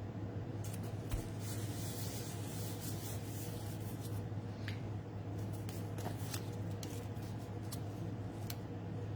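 Hands handling paper card stock and ribbon on a craft table: soft rubbing and rustling with scattered light clicks, busiest in the first few seconds, over a steady low hum.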